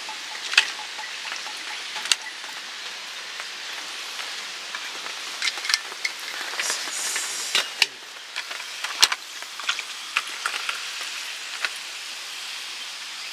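Heavy rain falling steadily, an even hiss, with a few sharp drips or taps standing out.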